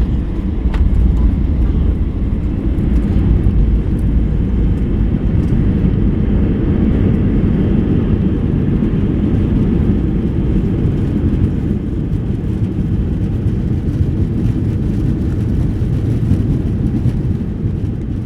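Airbus A320 airliner heard from inside the cabin during landing: a loud, steady low rumble that swells at the start and eases off near the end.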